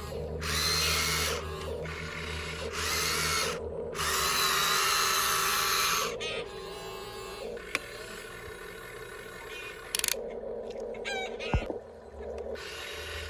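Small electric gear motors of a toy remote-control excavator whirring in three bursts, then a few sharp clicks and rattles near the end.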